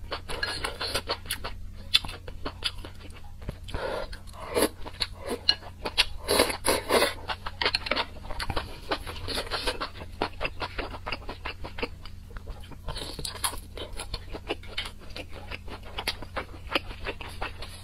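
Close-miked eating: irregular wet chewing, crunching and smacking as a person chews mouthfuls of enoki mushrooms and meat from spicy soup.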